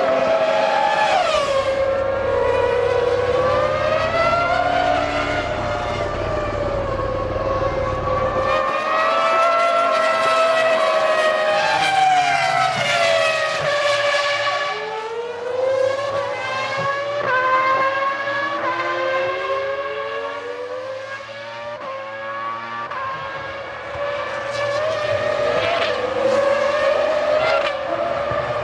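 1999 Formula One cars' V10 engines at full race revs. Several cars are heard at once, their pitch climbing steadily through each gear and dropping at each upshift or as they pass.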